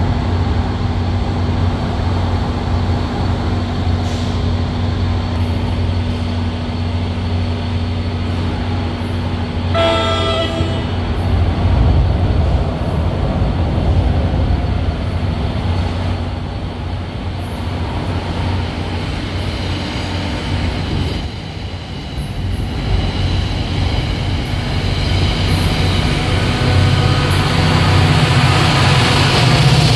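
NJ Transit diesel-hauled push-pull passenger train approaching and passing: a steady low engine drone, one short horn blast about ten seconds in, and wheel and rail noise growing louder as the train and its locomotive go by near the end.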